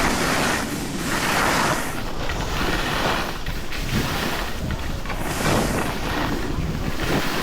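Wind rushing over the microphone of a moving skier, with ski edges scraping on the snow. The noise swells and fades about once a second, with the rhythm of the turns.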